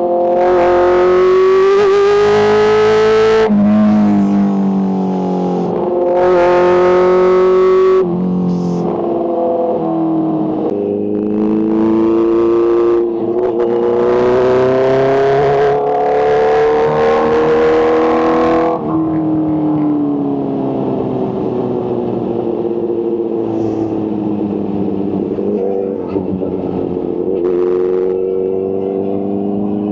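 Supercharged Kawasaki H2 inline-four engine accelerating hard up through the gears, the revs climbing and dropping back at each of several shifts, with a loud rushing noise during the hardest pulls. After about nineteen seconds the engine speed falls slowly as the bike slows.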